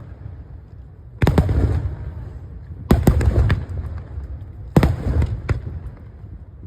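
Aerial fireworks going off: three sharp booms about two seconds apart, each followed by rumbling echo and crackle.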